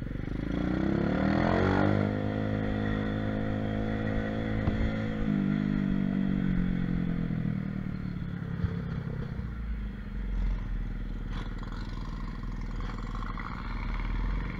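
Small pit bike engine revving up under acceleration, holding high revs, then stepping down in pitch about five seconds in and easing off to a lower, quieter run.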